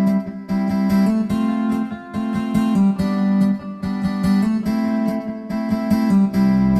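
Instrumental acoustic guitar music, plucked and strummed, with no singing; a low bass line comes in near the end.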